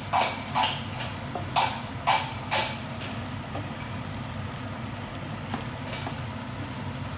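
A run of sharp metallic clacks, about two a second for the first two and a half seconds, then two fainter ones near the end, over a steady low hum.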